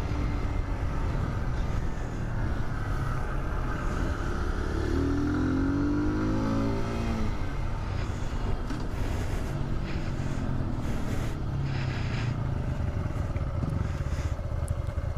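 Small mini-bike motorcycle engine running while riding, with wind rushing over the microphone. The engine revs up, rising in pitch about five seconds in, then settles back.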